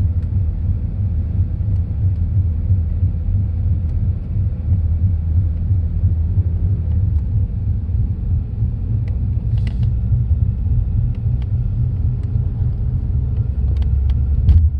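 Low, steady rumbling drone heard inside a 2010 BMW 328i's cabin while driving at 15 to 20 mph, loudest from the driver's floorboard. The owner cannot trace it: the new tyres are round and balanced, and the driveshaft, carrier bearing and universal joints check good.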